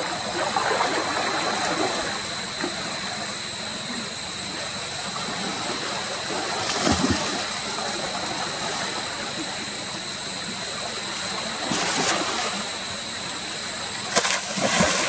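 Water sloshing and splashing over a steady hiss, with sharper splashes about seven seconds in, about twelve seconds in and near the end.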